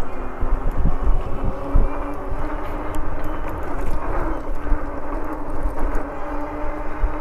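Electric bike riding under throttle: a steady hum from its hub motor over gusty wind buffeting on the microphone.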